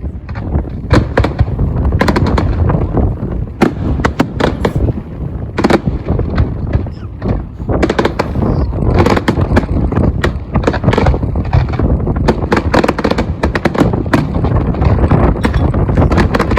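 Fireworks display: a dense, irregular barrage of aerial shell bursts and crackling reports over a continuous low rumble, getting busier in the second half.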